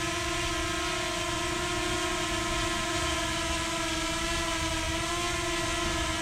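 Quadcopter drone's motors and propellers whining steadily in flight, one even buzzing tone with overtones over a rushing hiss.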